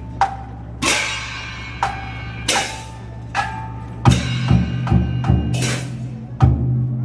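Chinese-style festival percussion: ringing gong and cymbal strokes about once a second, with sharp wood-block clicks between them. From about four seconds in, heavy drum beats join.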